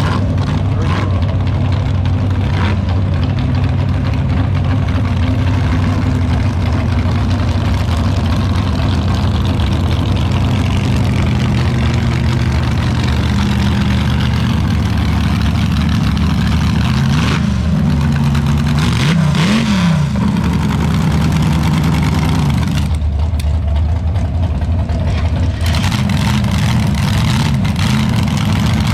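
Front-engine dragster's engine idling steadily, with two quick throttle blips that rise and fall in pitch a little past the middle.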